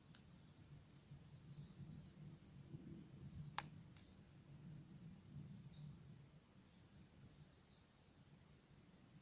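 Faint bird calls: a short falling series of high chirps, repeated about every two seconds. One sharp crackle from the burning firewood comes about three and a half seconds in.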